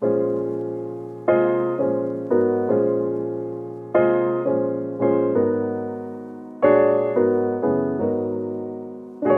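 Background piano music: slow, sustained chords, each struck and left to fade before the next.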